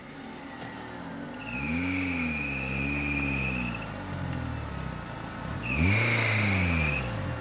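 Suzuki Samurai's engine revved hard twice under load as the 4x4 drives its wheels against the creek bed; each rev rises and falls back over about two seconds, with a high whine riding over it. Between the revs the engine holds a lower note.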